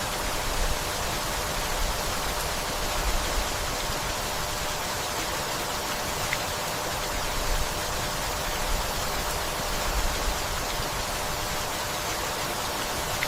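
Steady rainfall, a dense even hiss of many drops, with a few soft low thumps every few seconds.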